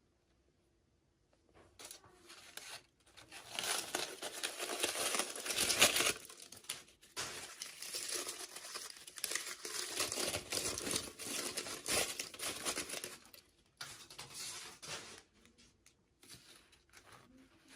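Toy packaging crinkling and tearing as it is opened by hand: a long run of crackling that starts about two seconds in and stops about fifteen seconds in, with a few short crinkles after.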